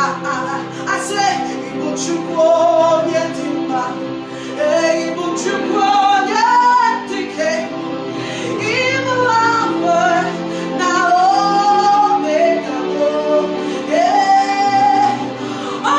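A woman singing a slow worship song with gliding, held notes, over sustained instrumental chords.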